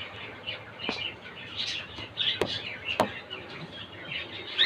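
Pet cockatiels chirping in short, repeated calls, with three sharp clicks in between.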